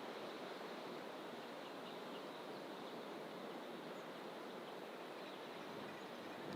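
Steady outdoor ambience of dense coastal fynbos bush: an even, continuous rush, with faint distant bird chirps now and then.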